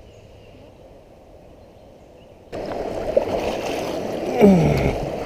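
Faint background at first, then a sudden jump to loud rushing, gurgling river water as a kayak runs fast rapids. A brief sound sliding down in pitch comes near the end.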